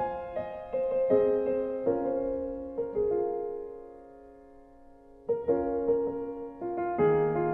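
Slow, gentle piano music: single notes and chords struck and left to ring and fade, dying away in the middle before new notes come in a little past halfway.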